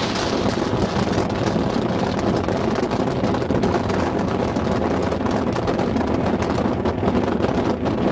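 Strong storm wind buffeting the microphone as a loud, steady rumble.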